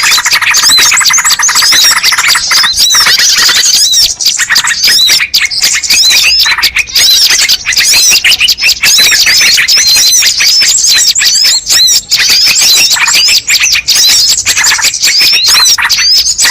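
A dense, loud chorus of many small birds chirping and chattering at once, with overlapping quick squeaky notes and no pause, as in a bird-lure recording.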